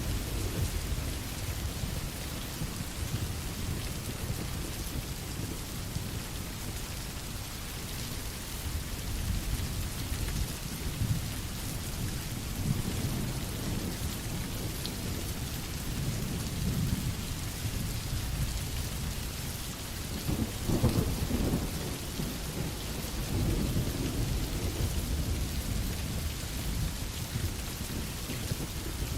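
Steady rain with a low rumble underneath, swelling about twenty seconds in.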